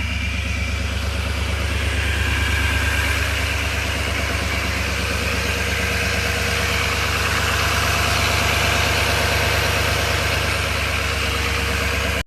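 Duramax L5P 6.6-litre turbodiesel V8 of a 2019 Chevy Silverado 2500HD idling steadily after a cold start.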